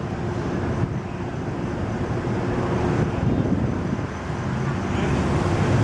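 New York City subway train running: a steady rumble with a constant hum.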